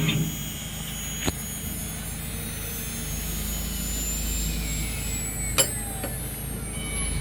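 CNC wood router running, a low hum under thin high-pitched whines that slowly slide down in pitch, with a sharp click about a second in and another near the end.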